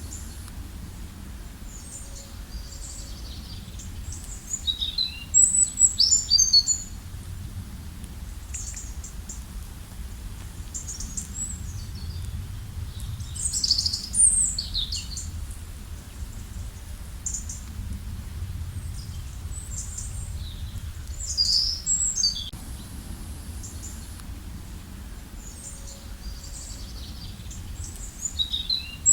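Songbirds chirping and trilling in bursts of quick high notes every several seconds, over a steady low rumble.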